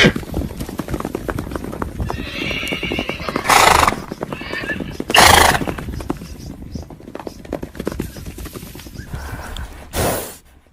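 A herd of horses galloping: a dense, fast patter of hoofbeats, with a horse whinnying about two seconds in and several loud short bursts from the horses. It cuts off just before the end.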